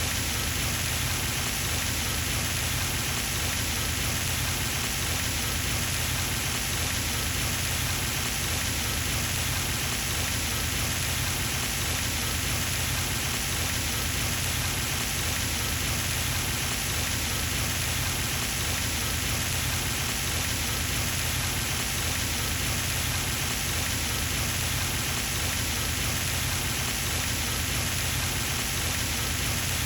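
Pond fountain splashing steadily, its water falling back into the pond in an even, unbroken rush.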